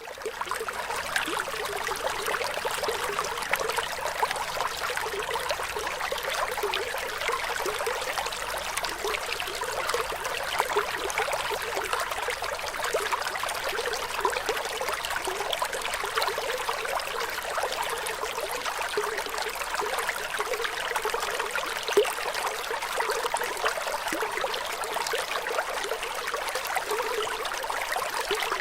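Flowing water: a steady, even splashing trickle that fades in over the first second and then runs on unchanged.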